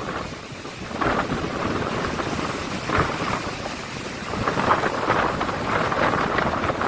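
Strong gusty wind buffeting the microphone over the rush of a rough sea, swelling and easing in uneven gusts.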